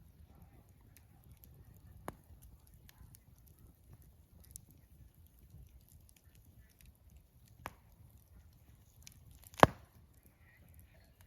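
Wood fire crackling: scattered faint ticks over a low steady rumble, with a few sharp pops, the loudest near the end.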